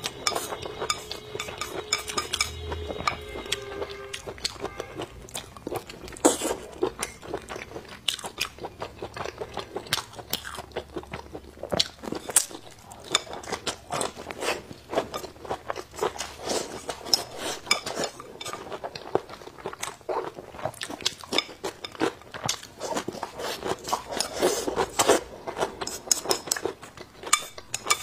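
Close-miked eating sounds: wet chewing and crunching of fried pig intestines and green chili peppers, in a dense run of irregular small clicks and smacks, with wooden chopsticks clicking against a ceramic bowl.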